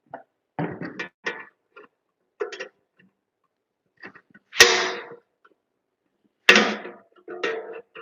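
Hand-tool work at an electrical installation: scattered short clicks and crunches, with two louder sharp bursts a little over halfway through, each fading over about half a second.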